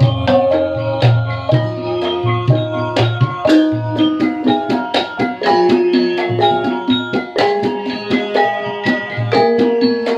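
Gamelan ensemble playing: many ringing struck metal-keyed notes over a steady, repeating drum beat.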